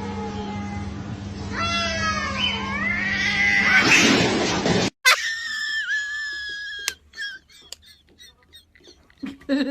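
Cats yowling: drawn-out, wavering cries that rise in pitch and grow louder over a steady low hum, then, after a cut, a single long cry of about two seconds, followed by faint clicks.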